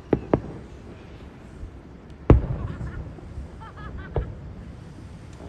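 Fireworks shells bursting overhead: two quick bangs near the start, the loudest burst a little over two seconds in with a long rumbling tail, and another bang about four seconds in.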